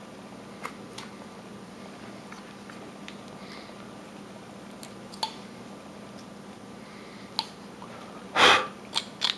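Carving knife working wood by hand: a few faint ticks and scrapes of the blade over a steady low hum, with a short, louder rushing sound about eight and a half seconds in.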